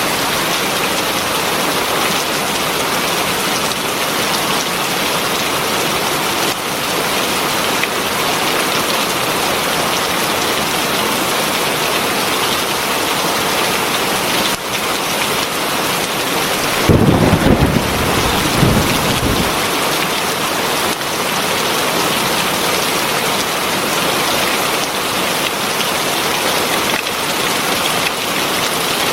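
Heavy rain falling steadily, with a short, deep rumble of thunder a little past the middle.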